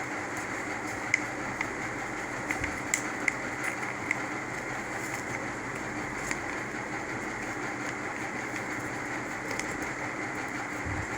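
Steady background hiss with a steady hum, over which paper gives a few faint crinkles and clicks as it is creased and folded, mostly in the first half and once more about six seconds in.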